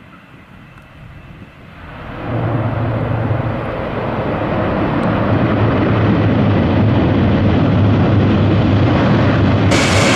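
Airbus A400M Atlas's four turboprop engines coming in loud about two seconds in and running steadily with a low propeller hum. Near the end a sudden harsher hiss joins.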